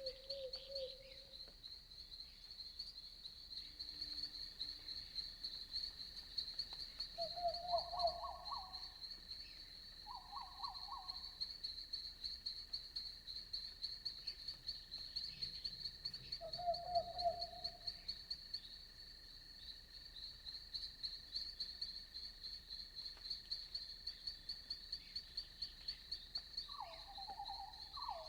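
Crickets chirping steadily in a high, fast-pulsing chorus. Now and then, about four times, a frog gives a short lower trilled call, with two overlapping near the end.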